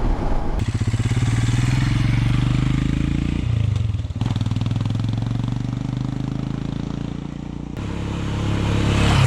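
Royal Enfield Himalayan's single-cylinder engine running under way, with a steady low engine note that breaks off briefly about four seconds in and grows louder near the end.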